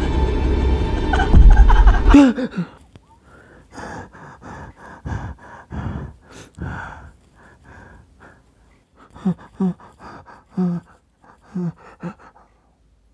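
Eerie film music cuts off about two seconds in with a falling tone. A man then breathes fast and heavily, about two breaths a second. Near the end come several short voiced gasps.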